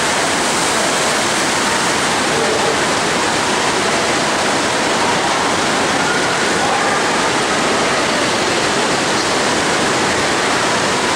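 Steady rush of water from a FlowRider surf simulator, its pumped sheet of water streaming over the ride surface.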